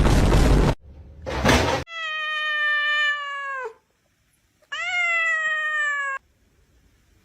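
A cat gives two long, drawn-out meows, each about a second and a half, with the pitch dropping at the end of each. Before them, a loud rushing noise cuts off sharply just under a second in, and a short burst of noise follows.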